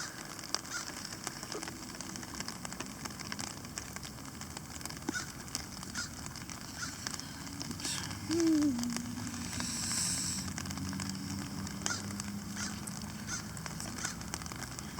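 Small campfire crackling with scattered pops. About eight seconds in, a short low call falls in pitch and trails into a steady low hum lasting a few seconds, with a brief hiss near the ten-second mark.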